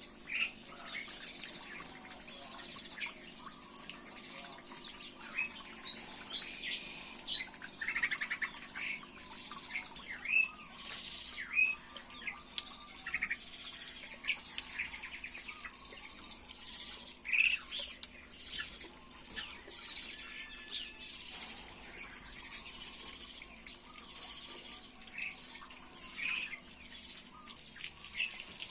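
Small songbirds chirping: many short, sharp call notes scattered throughout, over a faint steady high hiss.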